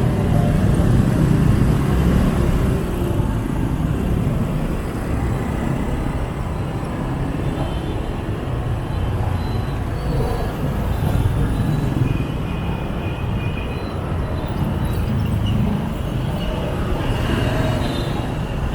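Steady motor traffic from a moving motorbike: a continuous low rumble of scooter engines, tyres and passing cars, with no sudden events standing out.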